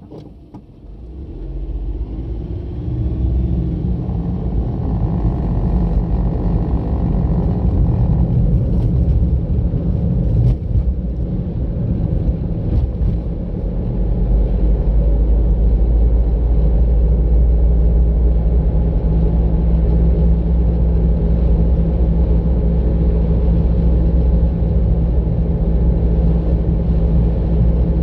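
Car engine and tyre noise as the car pulls away and speeds up: a low rumble that rises over the first couple of seconds and settles into steady driving, a little louder again about halfway through.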